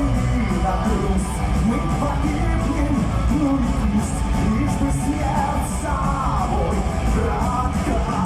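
Live power metal band playing at full volume, with a lead vocal singing over distorted guitars and drums.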